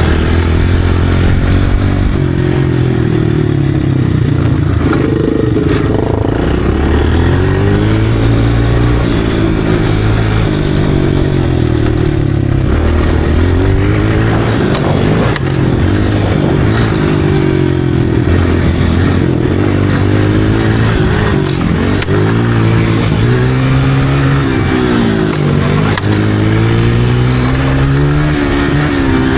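Motocross dirt bike engine being ridden, revving up and falling back again and again as the rider works the throttle and shifts gears.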